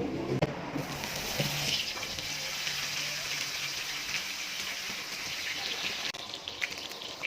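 Mala-spiced pork ribs sizzling on a hot pan: a steady hiss that changes about six seconds in to a thinner hiss with sharp crackles and pops.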